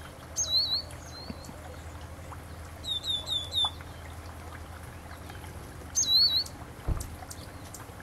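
A small songbird calling: a high note dropping into a quick wavering phrase, then four short chirps about three seconds in, and the first phrase again about six seconds in. A steady low hum runs underneath, and there is a single low thump near the end.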